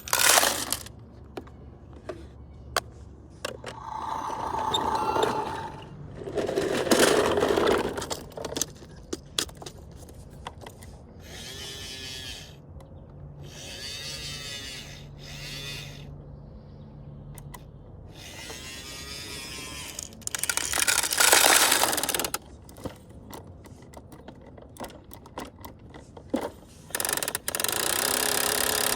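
Toy garbage trucks being played with: scattered plastic clicks and knocks, and several bursts of whirring noise lasting a second or two each, some with a wavering whine.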